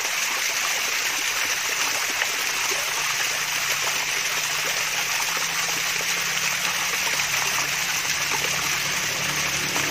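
Water from a small waterfall trickling and splashing steadily, an even, unbroken rush of running water.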